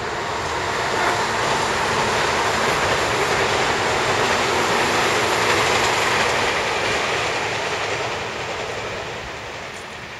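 An electric train passing along the tracks. The rumble of wheels on rail swells over the first couple of seconds, holds steady, then fades away over the last few seconds.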